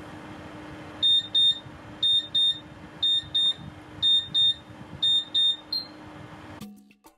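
Electric oven's timer alarm beeping in pairs, five double beeps about a second apart and then one short beep, signalling that the 30-minute bake time is up. A steady low hum runs underneath.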